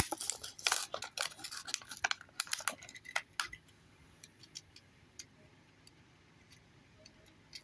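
Small clicks and crackles from handling a small diecast pull-back toy car. A dense run for the first three and a half seconds, then a few scattered light ticks.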